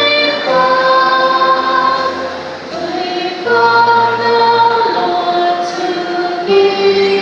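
A choir singing slowly, holding long chords that shift every second or two.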